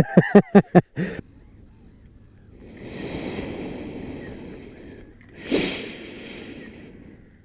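A person breathing out heavily close to the microphone: a long, soft exhale, then a shorter, louder puff of breath that trails off.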